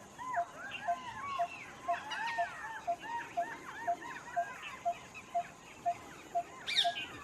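Many birds calling at once, with short rising-and-falling notes overlapping, while one short note repeats steadily about twice a second underneath. A louder, higher call comes near the end.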